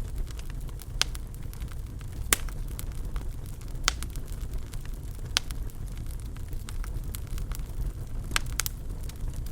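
Wood fire crackling in a fireplace: a steady low rumble of burning, broken by sharp pops about six times, two of them in quick succession near the end.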